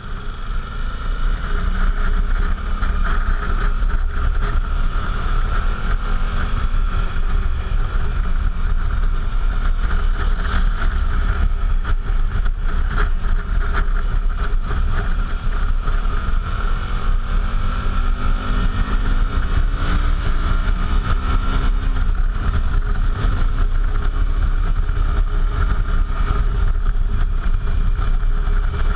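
Suzuki V-Strom motorcycle riding along, its engine note rising and falling in pitch, under heavy wind rumble on an action camera's microphone. It gets louder over the first couple of seconds, then holds steady.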